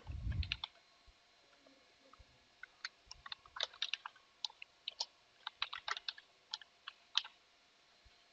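Typing on a computer keyboard: irregular bursts of keystroke clicks, with a brief low thump at the very start.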